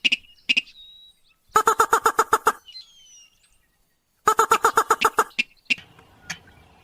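Recorded call of a sintar, a paddy-field rail, played as a hunter's lure: a short single note, then two bursts of fast repeated notes about a second long, a few seconds apart. Faint thin whistles come between the bursts.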